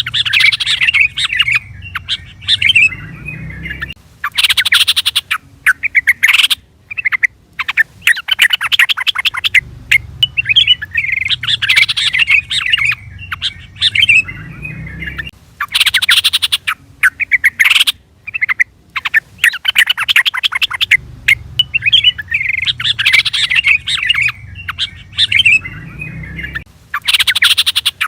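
Trucukan (yellow-vented bulbul) calls: bursts of fast, bubbly chattering and chirps, used as a lure call to make other bulbuls answer. The same sequence repeats about every eleven seconds, as a looped recording.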